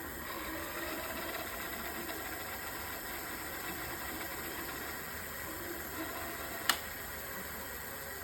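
Electric bike hub motor running, a steady hum with a faint, slightly wavering whine, with a single sharp click near the end.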